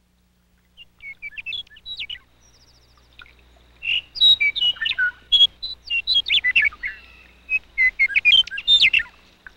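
Small songbirds chirping and twittering in quick short calls. The calls are sparse at first, then come thicker and louder from about four seconds in.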